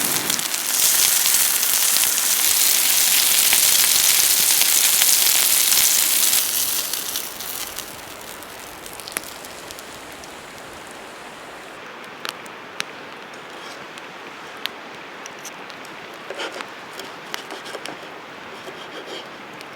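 A loud steady hiss that dies away about six to seven seconds in, followed by a quieter stretch of scattered crackles and pops from a wood campfire.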